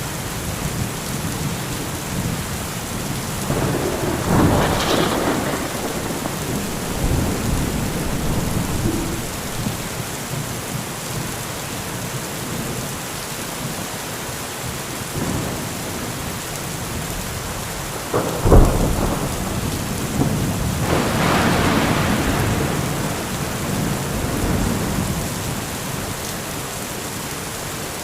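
Heavy rain falling steadily with thunder. A rolling rumble swells about four seconds in. A sharp thunderclap a little past halfway is followed by a long rolling rumble that fades out over several seconds.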